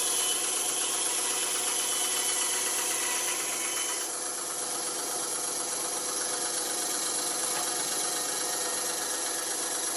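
Band saw running steadily with its freshly fitted blade, a continuous motor hum and blade rattle. About four seconds in, the sound changes slightly and turns a little duller.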